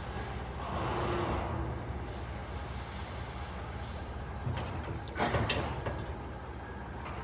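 Delivery truck's engine idling with a steady low rumble, with a short sharp clatter about five seconds in.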